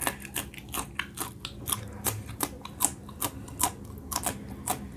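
Close-miked crunching of a raw green chilli being bitten and chewed, crisp snaps about three times a second.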